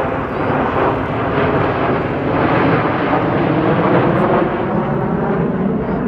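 Thunderbirds F-16 fighter jet flying past, its engine noise swelling to its loudest about three to four seconds in and then easing off slightly.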